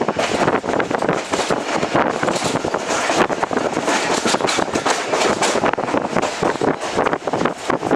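Express train running at speed, heard from aboard an ICF passenger coach: wheels clattering over the rails, with rattling from the coach and rushing air.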